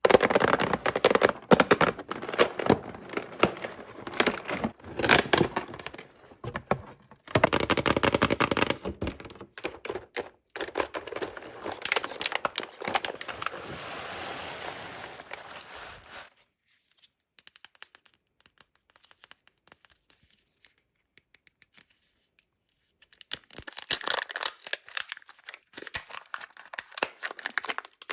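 Kinder Joy egg packaging being crinkled and torn open, in dense bursts of crackling and ripping with a longer steady tear at about 13 to 16 seconds. It breaks off for several seconds and starts again with more crinkling near the end.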